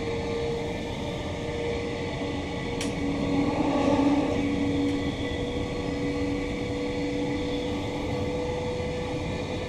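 Inside a Queensland Rail New Generation Rollingstock electric train running between stations: a steady rumble of wheels on the track with a steady electric hum over it. A single sharp click comes about three seconds in, and the noise swells briefly about a second later.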